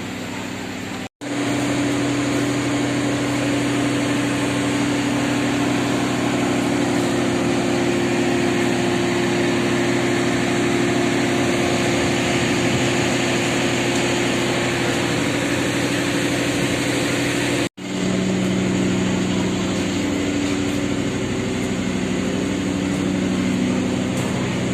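Diesel engine of a passenger train running steadily with a low hum over a broad hiss, broken twice by a sudden moment of silence.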